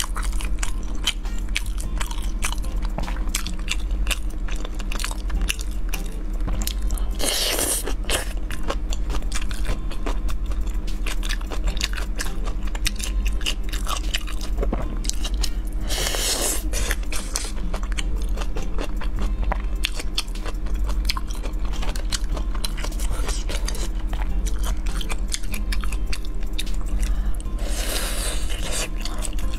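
Close-miked chewing and biting of spicy fried skewered food, with dense moist crunchy clicks and smacks. A louder hiss comes three times.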